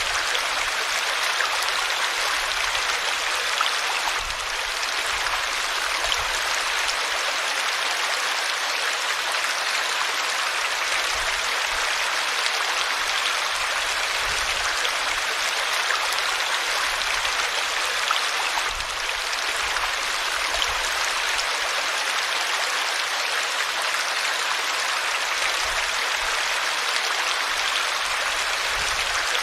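River water flowing in a steady, even rush of hiss, mostly in the middle and upper range with little low rumble.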